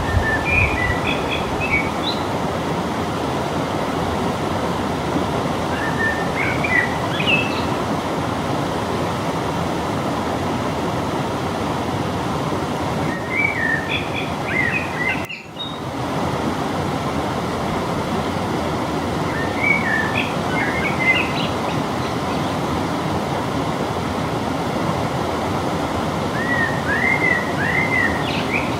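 A songbird singing short twittering phrases about every six seconds, five in all, over a steady rushing noise. The rushing noise drops out briefly about halfway through.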